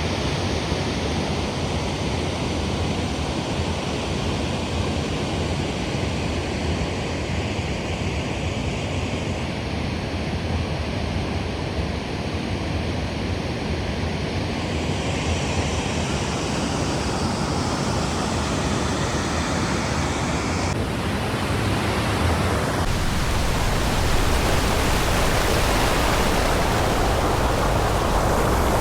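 Steady rushing of a waterfall's falling water, a dense unbroken noise that abruptly becomes louder and brighter about three quarters of the way through.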